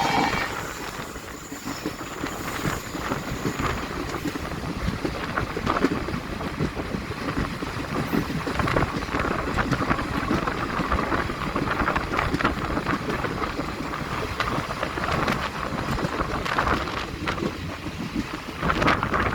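Moving train running steadily, with wind buffeting the microphone.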